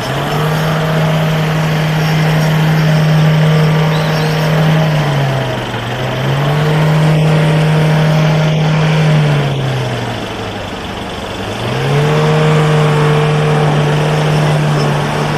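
4x4 off-road vehicle's engine revving hard through a mud race course, held at high revs in three long stretches, with two brief drops in revs between them.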